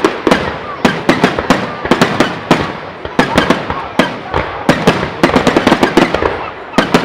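Fireworks display going off in a rapid barrage: clusters of sharp cracks and bangs, several in quick succession, coming about every half second to second.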